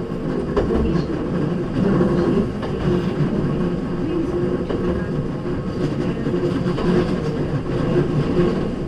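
Hankyu 3300 series electric train running, heard from inside the car: a steady rumble and hum from the motors and running gear, with a few brief clicks.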